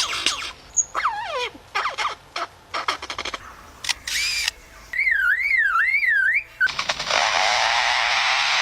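Lyrebird mimicking man-made sounds: a run of sharp clicks and chirps, then a warbling wail that rises and falls like a car alarm about five seconds in, then a harsh rasping noise like a chainsaw from about seven seconds.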